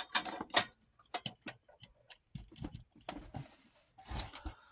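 Irregular clicks and knocks from a small vintage film device being handled and its controls worked, a few of them louder near the start and again near the end.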